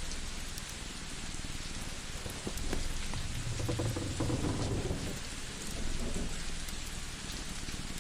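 Layered cozy ambience: a steady rain-like hiss with scattered small crackling pops, and a low rumble that swells for about two seconds in the middle.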